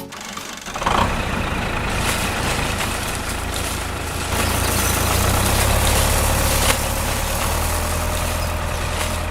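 An engine running steadily, coming up about a second in and getting a little louder about four seconds in.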